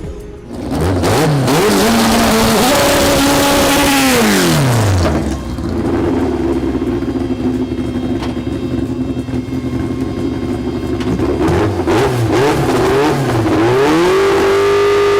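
Race car engine revving: quick throttle blips, then held at high revs and dropping off, running steady, and revving up again near the end.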